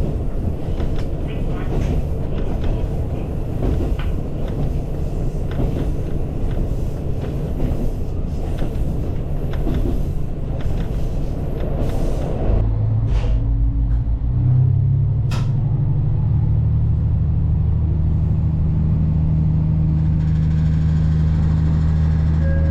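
Rumble and rattle of a moving vehicle, then from about halfway a steady low engine drone holding one pitch.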